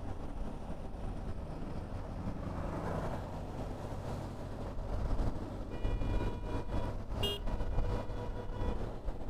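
Steady low rumble of idling engines in a truck traffic jam. About two-thirds of the way in, a vehicle horn sounds one held multi-tone blast for about three seconds, with a brief shrill note in the middle of it.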